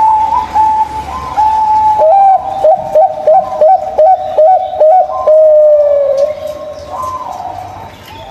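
Zebra dove (perkutut) cooing in a clear, pure voice. It sings a run of short clipped notes, about three a second, that ends in a longer note sliding slightly downward and then fading.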